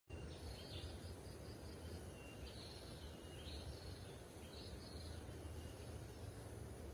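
Short high chirping calls from a small animal, repeating about once a second over a steady low rumble.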